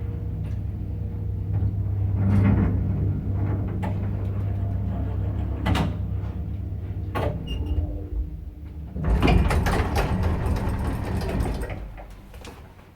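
Old Samarkand-built passenger elevator with an AS-62 motor: a steady low hum with scattered clicks and knocks while it runs, then a louder rattling slide, typical of the elevator doors, about nine seconds in, before the sound dies away.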